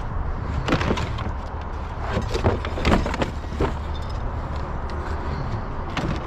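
Scattered clanks and clatters of scrap being handled in a dumpster: several sharp knocks in the first four seconds and one more near the end, over a steady low hum.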